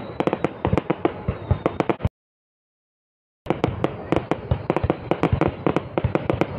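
Fireworks display going off in a rapid string of sharp bangs and crackles, several a second, as red shells burst overhead. The sound cuts out completely for over a second in the middle, then the bangs carry on.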